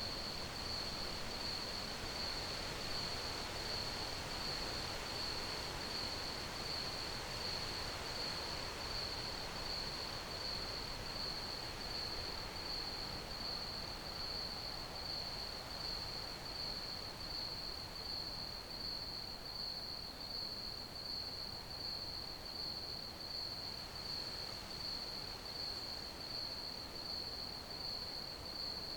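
Crickets chirping in a steady, evenly pulsed high trill over a soft background hiss.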